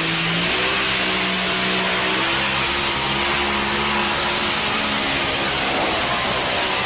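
Engine of a tractor-pull vehicle running hard at high revs under load, its pitch stepping up shortly after the start and wavering lower later, over a steady hiss.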